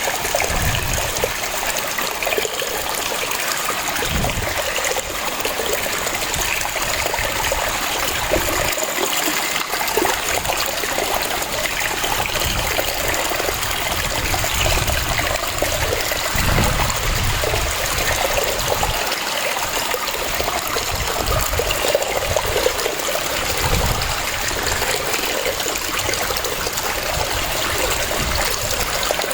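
Waterfall: water falling and rushing steadily, with uneven low rumbling surges underneath.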